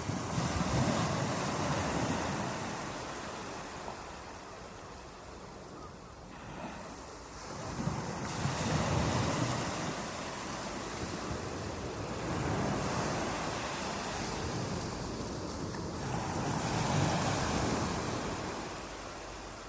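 Ocean surf: waves surging and washing back, rising and falling in about four swells a few seconds apart.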